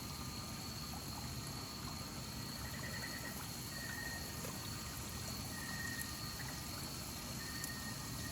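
Night ambience of running water, with a constant high insect drone and short chirping calls that come and go every second or two.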